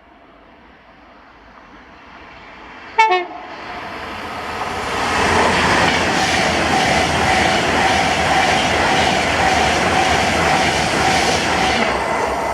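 Virgin Trains intercity express passing at speed. A short horn blast sounds about three seconds in; then the train's noise builds, rushes past loudly for several seconds with a steady whine in it, and begins to fade near the end.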